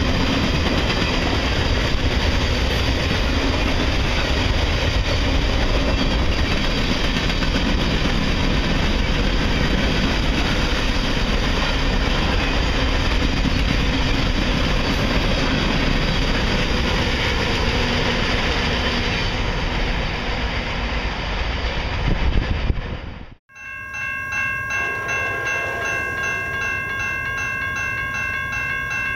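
Freight cars of a long CSX train rolling past, a steady rumble and rattle of wheels on rail. After an abrupt cut about 23 seconds in, a railroad crossing's warning bell rings in a quick, even, repeating pattern while the gate arms rise after the train has cleared.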